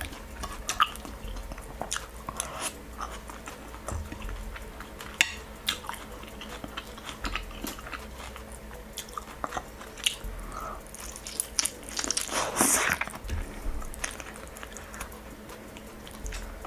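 Close-up eating sounds: a person biting and chewing stewed chicken and rice, with many small wet clicks and smacks, and a louder stretch of chewing about twelve seconds in.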